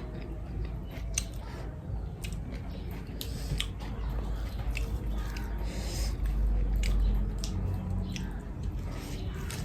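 A person chewing and eating rice and curry close to the microphone: irregular small wet clicks and smacks of mouth noise over a low hum.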